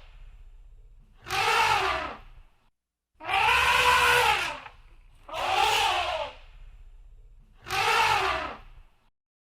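Elephant trumpeting: four loud, brassy trumpet calls in a row, each about a second long and rising then falling in pitch, with short pauses between them.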